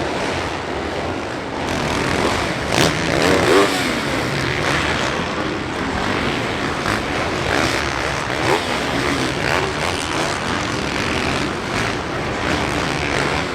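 Several supercross dirt bikes racing on a stadium track, their engines revving up and down.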